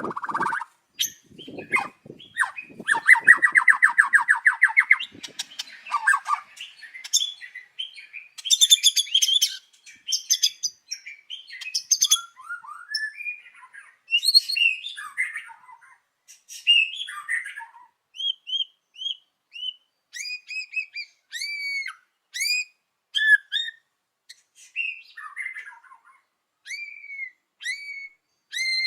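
White-rumped shama singing: a fast rattling trill over the first few seconds, then a long run of short, clear whistled notes that sweep up and down, each phrase different.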